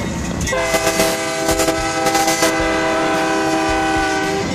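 BNSF diesel freight locomotive's air horn sounding one long, loud blast, a chord of several steady tones, starting about half a second in and cutting off near the end, over the rumble and wheel clatter of the passing train.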